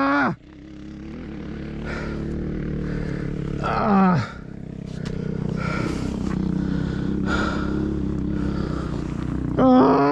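2023 Kawasaki KLX230R's single-cylinder four-stroke engine under way on a dirt trail. It revs up sharply about four seconds in and again near the end, and each time the pitch drops fast as the throttle is closed. Between the revs the engine runs steadier and slowly builds.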